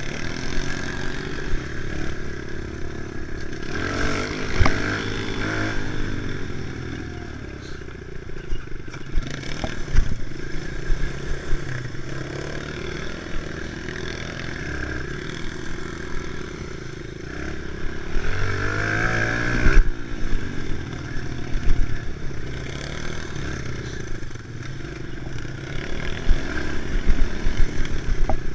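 Kawasaki KLX110 pit bike's small single-cylinder four-stroke engine running under a rider, the throttle opening and easing off. Its pitch climbs sharply about four seconds in and again near eighteen seconds. Scattered knocks and rattles come from the bike over rough ground.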